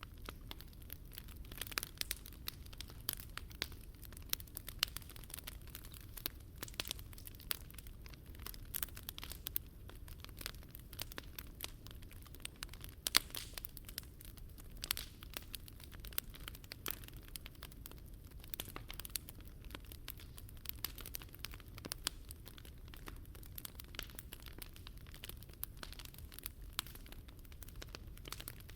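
Wood fire crackling: irregular sharp pops and snaps of burning wood, several a second, with one louder pop about 13 seconds in.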